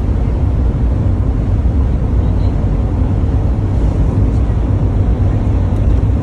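Steady low rumble of a moving road vehicle, engine and tyre noise heard from inside, with no change in pace.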